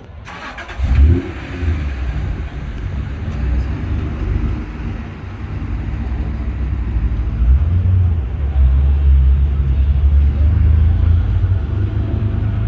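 A car engine revs sharply about a second in, then keeps up a deep, steady rumble that grows louder in the second half.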